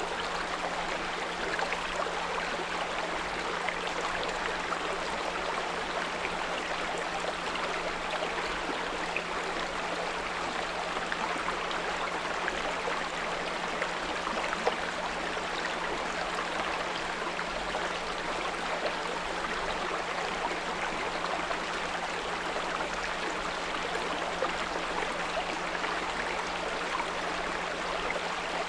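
Small brook flowing steadily, with a constant 174 Hz pure tone humming underneath.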